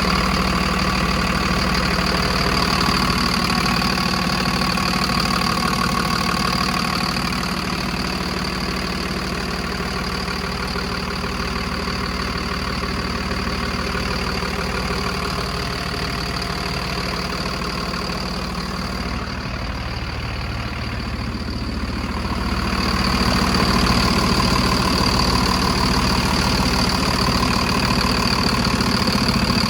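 Engine running steadily. About two-thirds of the way through, the sound drops away for a few seconds, then comes back a little louder.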